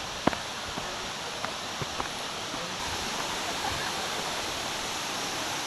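Steady rushing of a waterfall, an even hiss of falling water, with a few faint clicks, the sharpest about a quarter second in.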